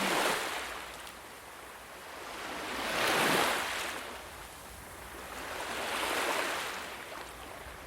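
Ocean waves washing in, rising and falling in three swells about three seconds apart, the loudest near the middle.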